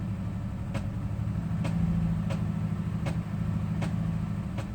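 2006 Jeep Liberty's 3.7-litre V6 running a little above idle, with six sharp ticks about three-quarters of a second apart. The owner cannot trace the tick; it comes at about 1500 RPM and up, alongside a cylinder 4 misfire code (P0304) that returns after new coils and plugs.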